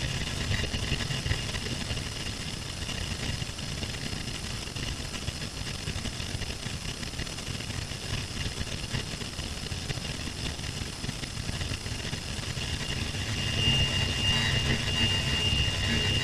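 Quiet passage of a harsh noise track: a low, steady rumbling drone, with a thin high whine coming in about two thirds of the way through.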